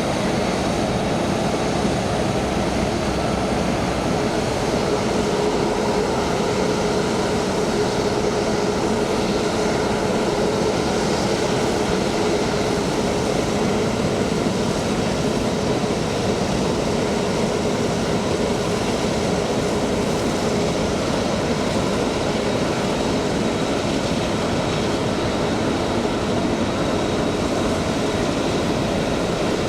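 Steady noise of jet airliner engines running, a constant rush with a faint steady whine through it.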